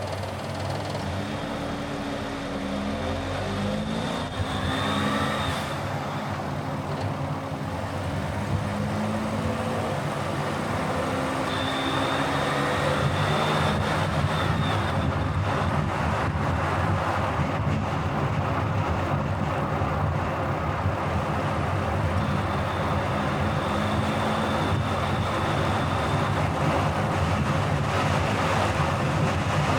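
Car driving along a road: steady engine and tyre noise, with the engine note rising in pitch a few times as it accelerates, and the overall noise slowly getting louder.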